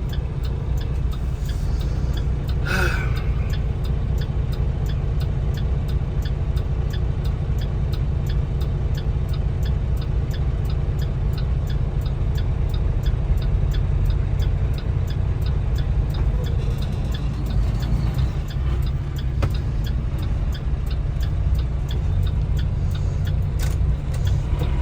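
Steady low rumble of a truck's engine heard from inside the cab in slow traffic, with a turn signal clicking evenly, about two to three ticks a second.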